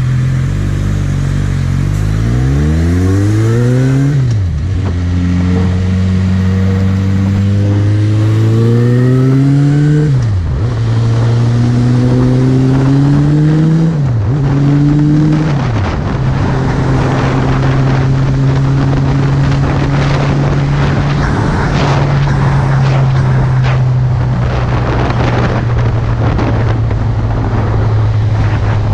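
Suzuki GSX650F's inline-four engine accelerating hard through the gears: the pitch climbs and drops at each of four upshifts, then holds steady at cruising speed with wind rushing over the microphone.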